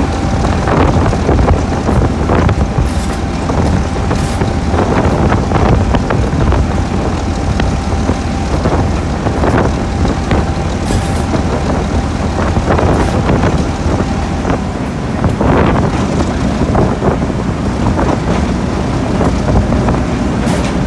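A train hauled by a Class 08 diesel shunter on the move: a steady low rumble with irregular clanks and wind on the microphone. A thin steady whine stops about two-thirds of the way through.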